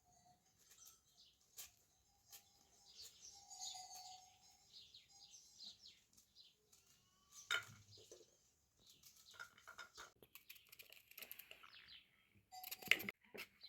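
Small birds chirping and twittering faintly, with a couple of sharp clicks, one about halfway and a louder one near the end.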